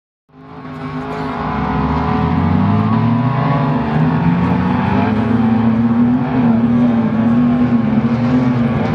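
Off-road 4x4 engine running hard at high revs as it climbs a steep sand dune, its pitch wavering but staying high. It fades in over the first couple of seconds.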